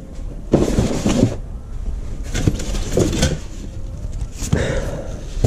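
Irregular rustling, clattering and knocking of small parts being rummaged through by hand, with sharp clicks scattered among short bursts of noise.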